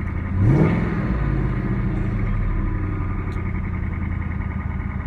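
2018 Ford Mustang GT's 5.0-litre Coyote V8 running at idle, blipped once about half a second in, the revs rising quickly and falling back to a steady idle.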